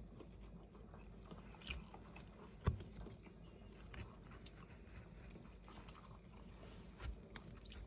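Faint chewing and mouth sounds from someone eating soft young-coconut jelly, with a few scattered small clicks and smacks, the sharpest about a third of the way in.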